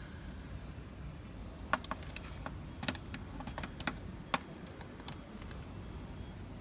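Metal clinking of an open-end spanner and oil filter cap wrench as the oil filter is levered loose anticlockwise. A scatter of sharp, irregular clicks comes between about two and five seconds in.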